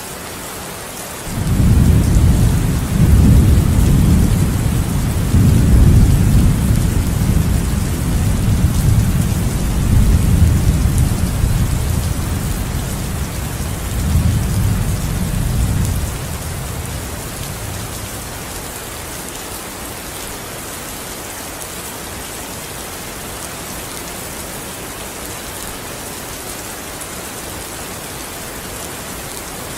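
Steady rainfall with a long roll of thunder that rumbles from the start and dies away about halfway through, leaving only the rain; a new rumble of thunder begins near the end.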